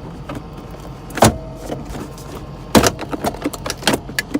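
Sharp plastic clicks and snaps of wiring connectors being unplugged from the center console switches: two loud snaps about one and three seconds in, then a quick run of smaller clicks.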